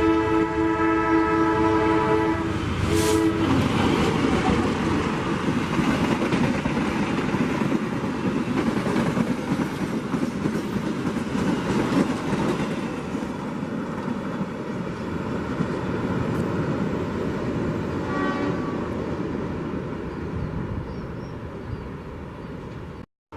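Train horn sounding a chord for about two seconds, then a train passing at speed, with wheels rumbling and clattering on the rails and slowly fading. A short, fainter horn sounds again about three-quarters of the way through.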